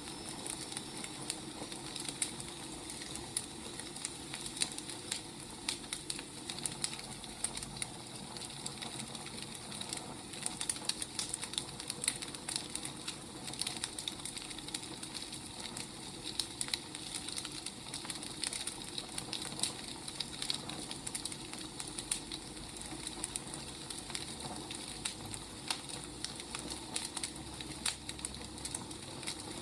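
Firewood burning, crackling steadily: many small sharp snaps over a soft hiss.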